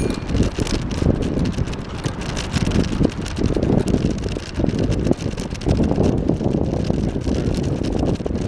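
Wind buffeting the microphone on a moving bicycle, with a steady rumble and many small rattling knocks from the ride.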